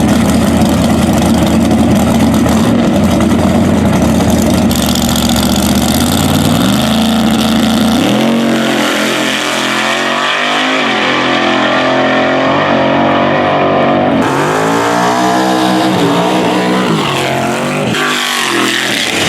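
Drag-racing car engine idling steadily, then from about six seconds in revving up and falling back several times.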